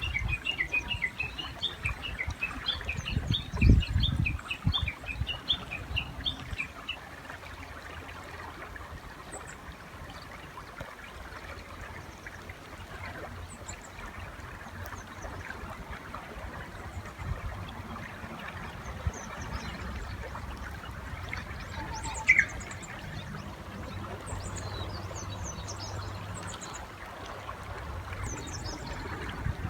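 A Japanese bush warbler gives a rapid run of short chirping notes for the first several seconds over the steady rush of a river. A low thump comes about four seconds in, and later there are scattered high chirps and one louder falling note.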